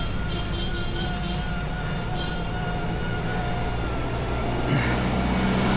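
Wind rushing over a handlebar-mounted camera microphone, with a faint steady whistling tone. Near the end a passing motor vehicle's noise swells as it comes close.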